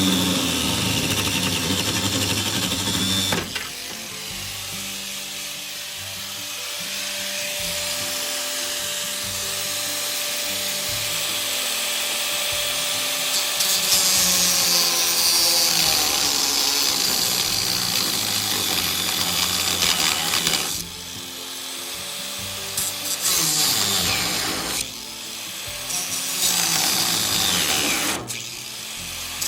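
A power tool running in long stretches with a harsh, hissing tone, stopping briefly and starting again several times, over background music.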